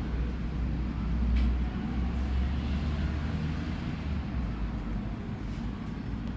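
Alstom NGT8D tram running, a steady low rumble of its motors and running gear with faint tones above it; the rumble weakens about four to five seconds in.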